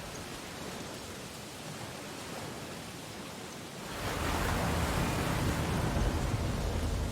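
Ocean surf on a beach: a soft, steady hiss of water, then about four seconds in a wave breaks and washes in, noticeably louder, to the end.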